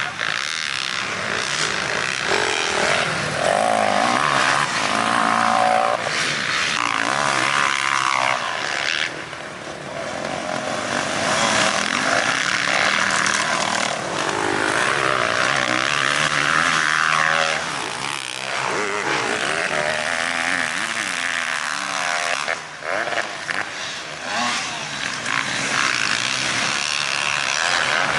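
Dirt bike engines revving, the pitch rising and falling again and again as the throttle opens and closes, with short drops near 9 and 23 seconds in.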